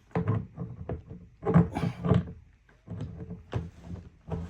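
Plastic parts of a Nature's Head composting toilet knocking and scraping as the lid section is slid onto its slide hinge: several irregular clunks with rubbing in between.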